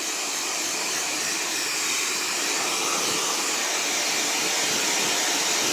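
An electric blow dryer running steadily while drying a wet dog, its airflow noise growing slightly louder toward the end.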